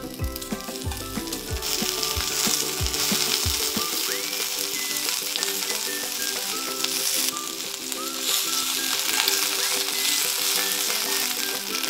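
Peeled shrimp sizzling in hot oil in a cast iron skillet as they are turned with chopsticks. The sizzle grows louder about two seconds in and stays dense, with small spits and crackles.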